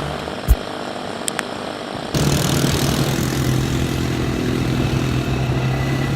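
ATV engine running steadily with a low, even drone, cutting in abruptly about two seconds in. Before that there is a quieter stretch with a few sharp knocks.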